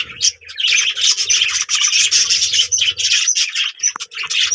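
Many birds calling at once, rapid overlapping squawks and chirps, with a low hum under them that comes and goes.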